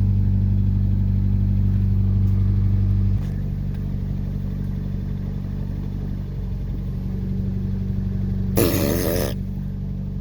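Ford Ranger pickup engine running just after its first cold start in a year. About three seconds in the engine note drops and runs quieter and lower. Near the end a brief loud burst of noise sounds over it.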